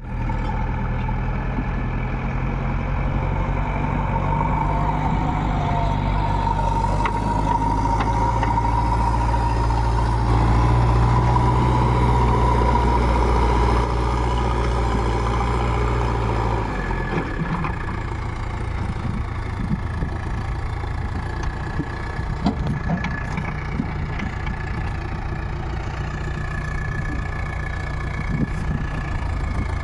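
Heavy diesel engine of a work vehicle running steadily. About sixteen seconds in, the deep steady drone drops away and a rougher engine note carries on, with scattered knocks and clanks.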